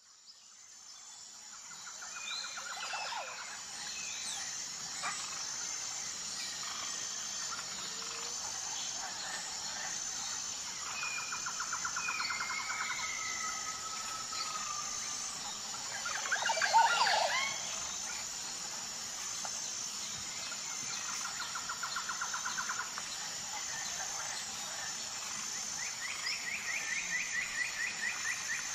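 Birds calling, with several short trilled phrases and one louder call about sixteen seconds in, over a steady high-pitched hum; the sound fades in at the start.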